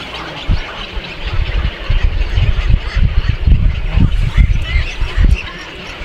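Birds calling over a loud, uneven low rumble of thumps.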